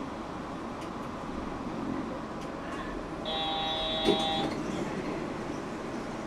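Interior of a Yurikamome automated train car stopped at a station, with a steady hum throughout. A little past the middle, a short electronic chime holds for about a second, and a single thump sounds during it.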